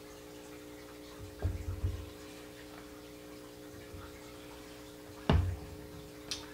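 Wooden beehive frame parts being handled and knocked on a work surface during assembly: two low knocks about a second and a half in, a sharper, louder knock about five seconds in and a light click near the end, over a steady electrical hum.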